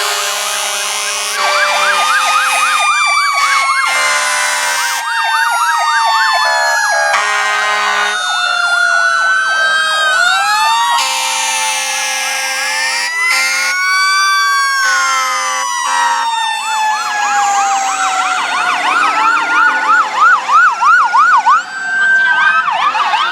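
Several fire apparatus sirens sounding at once in a passing parade: slow wails rising and falling in pitch overlap with fast yelping sirens. Steady low horn tones cut in and out, and the sound grows choppier and louder near the end.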